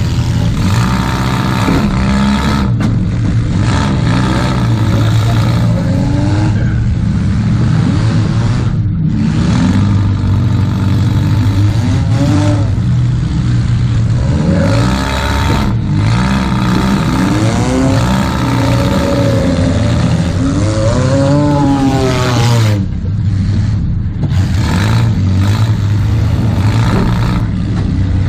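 Demolition derby Toyota Camry's engine, heard from inside its stripped-out cabin, revving up and falling back again and again as the car drives and shifts.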